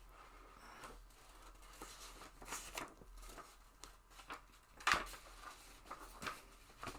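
Faint scattered rustles and clicks, the sharpest about five seconds in.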